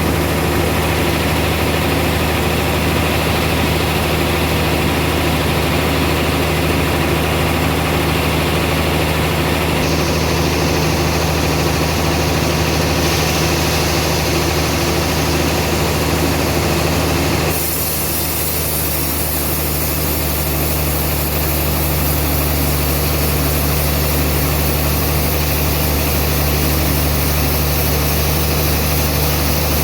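Band sawmill running with a steady low drone. The higher, hissing part of the sound shifts in tone a few times, most clearly a little past halfway.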